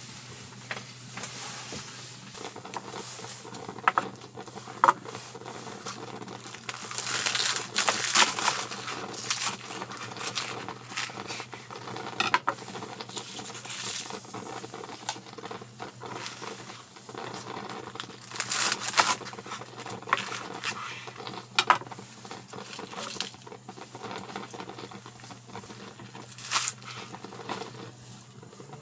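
Close-up handling sounds: crinkling and tearing with many small clicks and taps, over a steady low hum.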